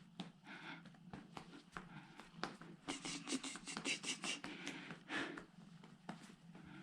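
A hand patting cats on their rumps as a 'cat drum': a run of light, quick pats of uneven rhythm, busiest in the middle.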